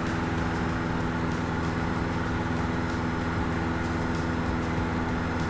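Cessna 152's four-cylinder piston engine and propeller droning steadily at cruise power, heard inside the cockpit during a steep turn.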